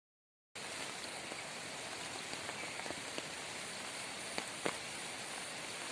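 Steady rain falling, with scattered drops ticking on nearby surfaces; it begins abruptly about half a second in, after silence.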